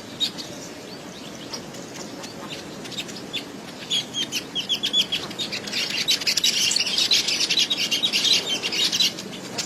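Small birds chirping: scattered short, high chirps, a quick run of them about four seconds in, then dense, louder chattering from about six to nine seconds.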